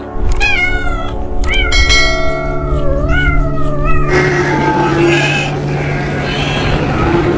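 A cat meowing: three drawn-out meows in the first four seconds, followed by a noisier, rougher stretch.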